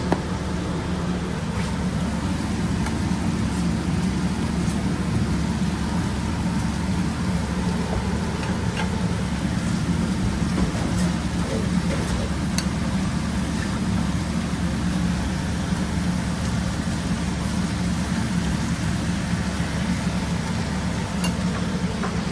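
Steady low mechanical hum of a food truck's kitchen machinery, with a steady hiss over it and a few light clicks scattered through.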